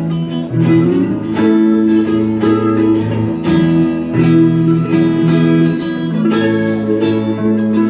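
Blues band playing an instrumental passage: strummed guitar chords over steady sustained low notes, with no singing.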